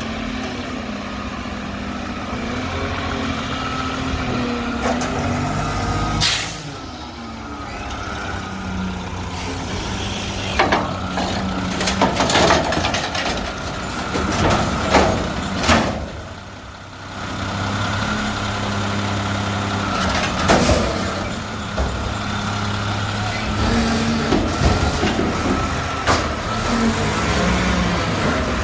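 Mack garbage truck with a McNeilus front-loader body: its diesel engine running, the pitch stepping up and down, with several short, sharp sounds standing out over it.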